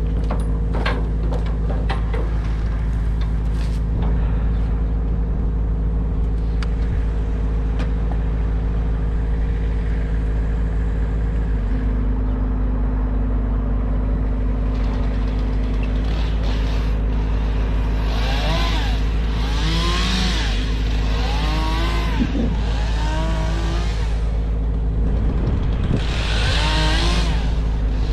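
An engine running steadily. From about halfway through, an engine revs briefly again and again, in short rising-and-falling bursts.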